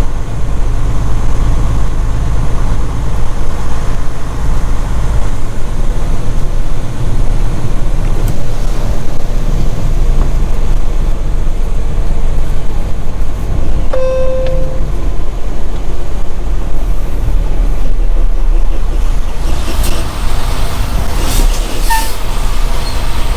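Semi truck's diesel engine running steadily with a low rumble. A short single beep sounds about halfway through, and a few sharp clicks come near the end.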